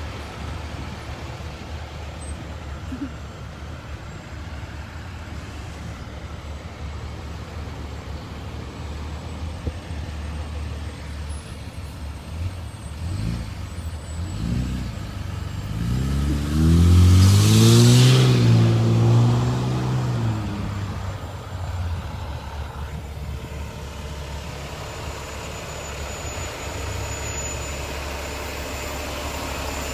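Cars and trucks driving slowly past, with a steady low engine rumble. About halfway through, one vehicle passes close, its engine getting loud and rising then falling in pitch before fading away.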